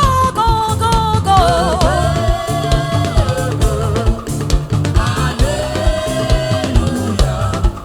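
Live gospel praise music: voices hold long sung notes with vibrato over a drum kit and bass beat.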